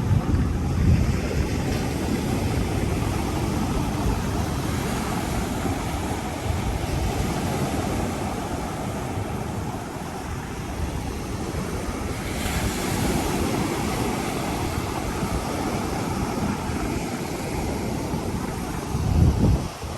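Surf with wind buffeting the microphone: a steady rushing noise with a heavy low rumble, swelling louder near the start and again near the end.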